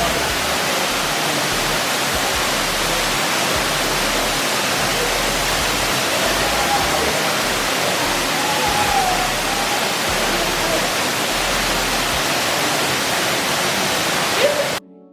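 Waterfall rushing, a steady loud hiss of falling water, that cuts off suddenly near the end.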